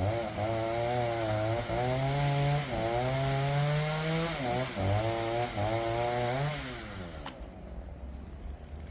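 Makkie 38cc two-stroke chainsaw cutting through a log at high revs, its pitch dipping and recovering as the chain takes the load. About seven seconds in the engine eases off and falls away, with a single click.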